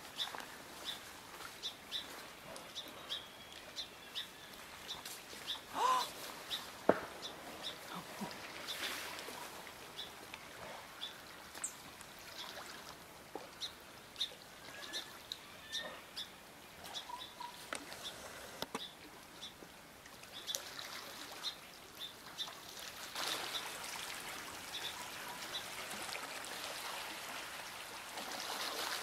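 Small birds chirping, a run of short high peeps repeating over a faint steady hiss, with a louder single call about six seconds in.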